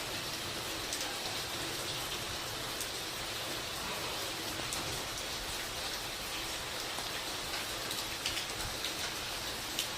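Waterfall: water falling and splashing in a steady, even rush, with scattered sharp drip-like ticks over it and a few louder splashes near the end.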